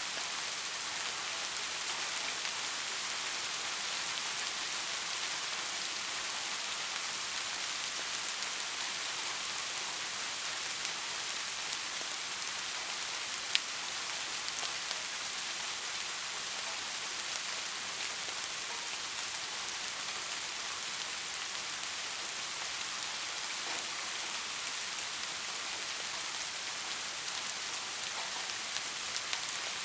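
Steady rain falling, a continuous even hiss of drops on a surface, with one sharp drip or tick about halfway through.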